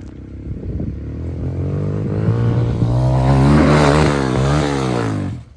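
Dirt bike engine revving, the pitch swinging up and down as the throttle is worked, growing louder in the second half and then cutting off abruptly near the end.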